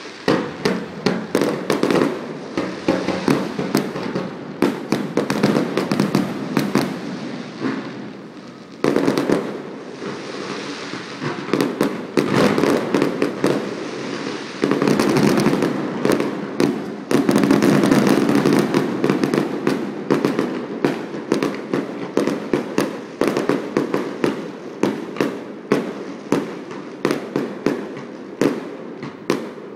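Fireworks display: a rapid, unbroken stream of bangs and crackling from bursting shells, with a brief lull a little over eight seconds in and the densest, loudest volley around the middle.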